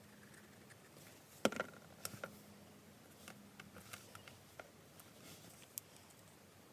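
Light handling sounds of card and craft tools on a desk: one sharp knock about a second and a half in, then a few soft scattered clicks and taps.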